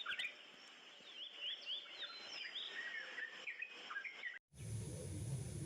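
Several birds chirping and calling in short rising and falling notes. About four and a half seconds in the sound cuts out briefly and is replaced by a steady low rumble with a wavering hum.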